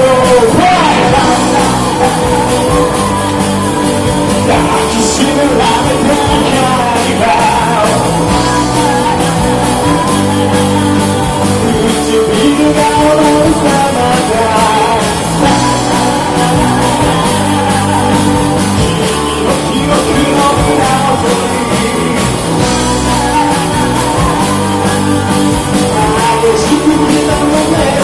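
Rock band playing a song live, with a singer, loud and continuous with a steady beat.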